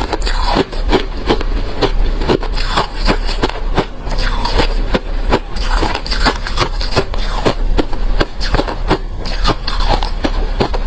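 Refrozen crushed ice being chewed up close to the microphone: rapid, irregular crunches several times a second.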